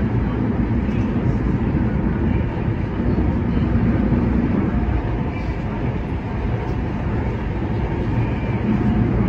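Kinki Sharyo–Kawasaki electric train running along the line, heard from inside the car: a steady low rumble of wheels and running gear.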